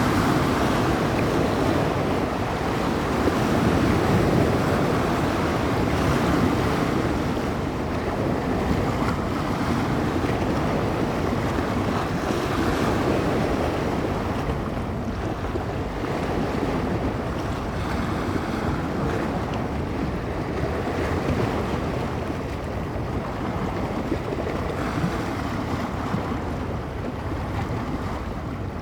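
Small bay waves washing and breaking against the shore, a continuous wash that swells and eases every few seconds, with gusting wind buffeting the microphone.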